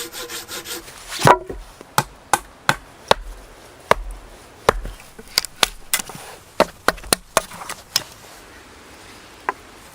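Wood being chopped: a run of sharp, irregular wooden knocks, some in quick succession, the loudest about a second in.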